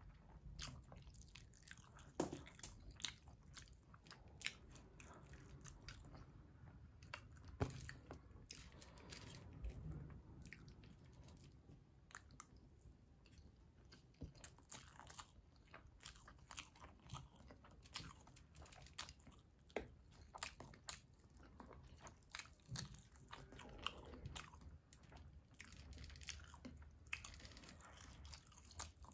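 Quiet chewing and mouth sounds of a person eating mutton biryani by hand, with frequent short, sharp clicks and crunches throughout.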